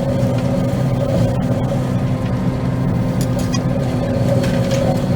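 Combine harvester running steadily while cutting soybeans: a constant low engine and machinery drone with a steady higher whine over it.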